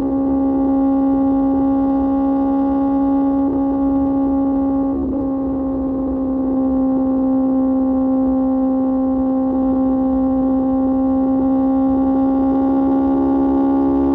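QJ Motor SRK600 inline-four engine with an SC-Project exhaust, held at steady high revs while cruising: a loud, even drone whose pitch barely changes.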